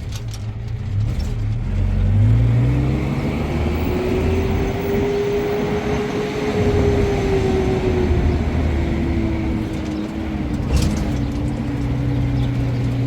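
A motor vehicle's engine running under load, its pitch climbing over the first few seconds, holding around the middle, then easing back down.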